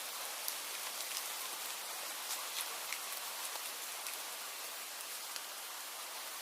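Steady rain: an even hiss with scattered sharp drop taps, which thin out toward the end.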